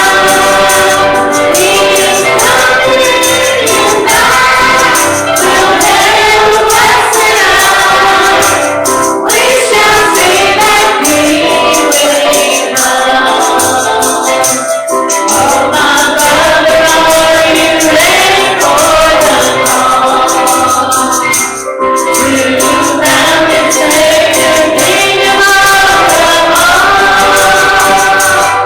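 Church congregation singing a gospel hymn together, with a tambourine shaking along to the beat.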